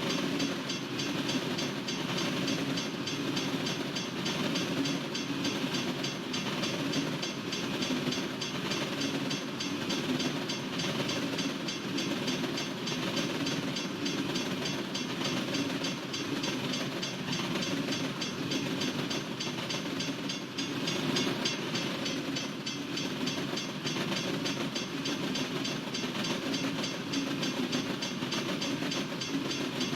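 Freight train cars rolling steadily past, a continuous rumble of wheels on rail with rhythmic clickety-clack from the wheels crossing rail joints.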